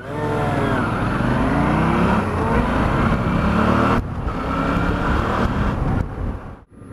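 Suzuki V-Strom 650 V-twin motorcycle engine accelerating through the gears: the pitch climbs steadily, cuts off sharply about four seconds in at a gear change, climbs again, then drops away near the end.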